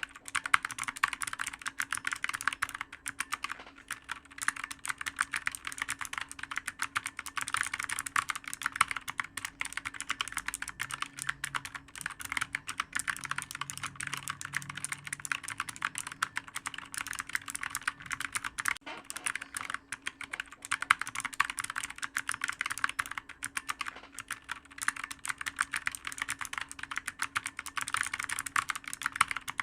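Clicky computer keyboard being typed on fast and without pause, a dense stream of key clicks.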